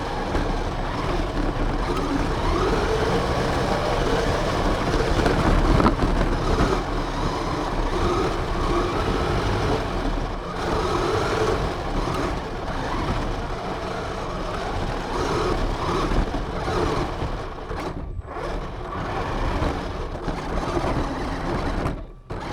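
Radio-controlled car driving, heard from its onboard camera: a drivetrain whine that rises and falls with the throttle over heavy rumble and rushing noise. It cuts out briefly near the end.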